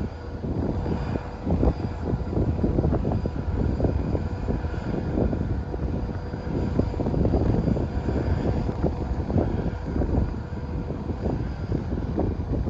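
John Deere 7330R tractor's six-cylinder diesel engine running steadily under ploughing load, with frequent irregular knocks and rattles over the top.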